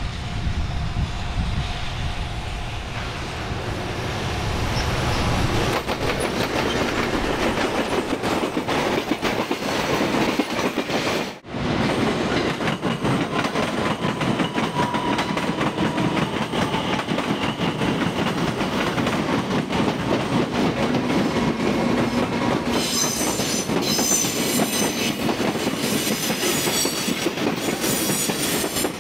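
Container freight train hauled by a JR Freight EF210 electric locomotive rolling past close by, its wheels clattering steadily over the rail joints. In the last several seconds a high wheel squeal rises over the clatter. There is a brief break about a third of the way in, where one passing train gives way to another.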